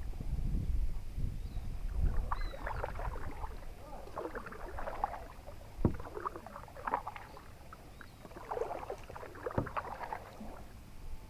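Kayak paddle strokes splashing in the water, in a slow rhythm of about one stroke every two seconds, with a couple of sharp knocks.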